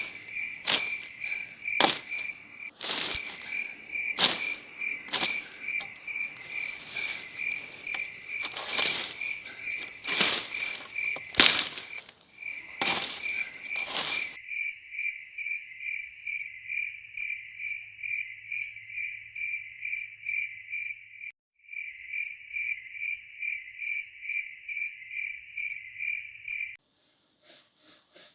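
Cricket chirping steadily in a rapid pulsed trill, with sharp irregular knocks over it during the first half, the loudest sounds there. The knocks stop about halfway and the chirping carries on alone, breaking off briefly and then cutting out near the end.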